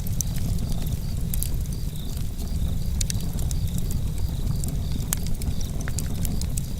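Campfire burning: wood crackling with sharp, irregular pops and snaps over a steady low rumble of the flames.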